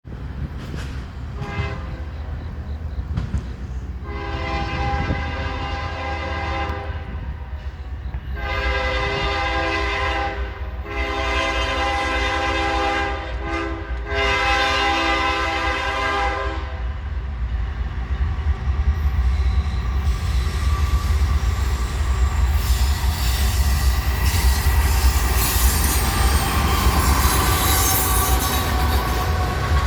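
Norfolk Southern manifest freight train's locomotive air horn sounding four long blasts over a low diesel rumble as it approaches. The train then rolls past with wheels clattering and squealing on the rails, growing louder toward the end.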